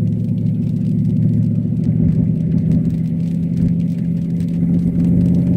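Cadillac STS-V's supercharged V8 running steadily at a light, even throttle, heard from inside the cabin, with faint light ticking over the engine drone.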